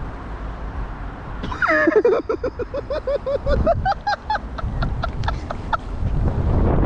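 A bird calling: one falling note, then a quick run of short repeated notes that step up in pitch and turn into a fast dry chatter before stopping.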